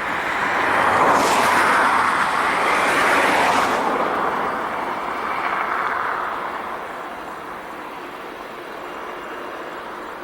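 Four-engine jet airliner's engines at takeoff power. The roar swells over the first couple of seconds, holds, then fades steadily as the aircraft passes and climbs away.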